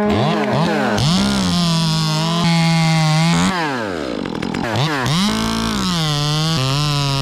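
Two-stroke chainsaw cutting wood, revving up and down repeatedly with its pitch dropping and holding during cuts. For the first couple of seconds a second saw holds a steady high rev alongside, then stops.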